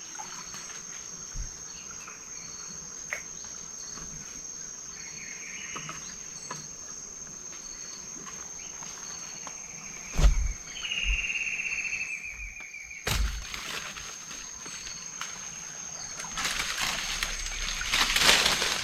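Steady high-pitched insect drone, with a short falling trill about halfway through. Two sharp knocks come a few seconds apart, and a noisy rush builds near the end.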